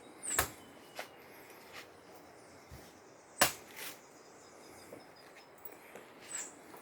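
A few short, sharp knocks and clicks over a faint background hiss; the loudest comes a little past halfway.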